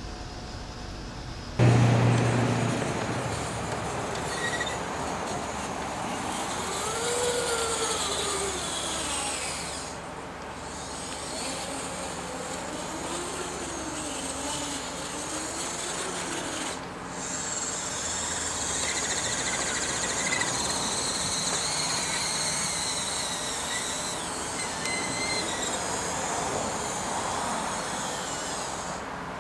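Electric motors and hydraulic pump of radio-controlled scale construction machines whirring as they work, starting abruptly about a second and a half in. Faint whines glide up and down in pitch as the load changes.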